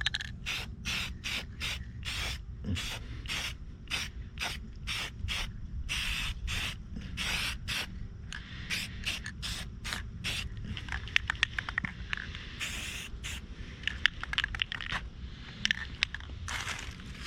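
Aerosol can of Rust-Oleum spray paint hissing in rapid short spurts, about three a second. A stretch of clicks and crackling comes about two-thirds of the way through.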